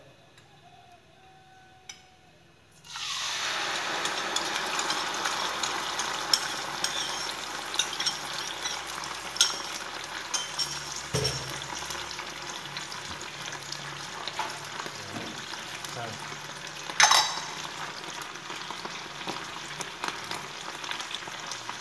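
Fermented rice (mẻ) tipped into hot fat in a small frying pan about three seconds in. The pan starts sizzling abruptly and keeps frying steadily, with scattered pops and spits as the water in the mẻ makes the fat spatter.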